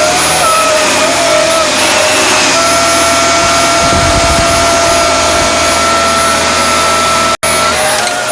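Dyson DC24 upright vacuum cleaner running with a steady high-pitched whine over its motor rush. The whine wavers in pitch for the first couple of seconds, then holds steady, and the sound drops out for an instant near the end. The whine is the sign that the canister is full and needs emptying.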